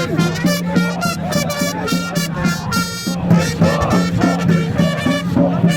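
Festival brass trumpets and drums playing a lively, rhythmic tune with a quick steady beat.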